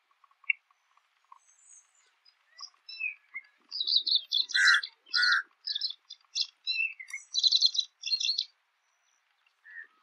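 Jungle babbler calling: a few faint chirps, then a quick run of loud, harsh, squeaky chattering notes lasting about four seconds.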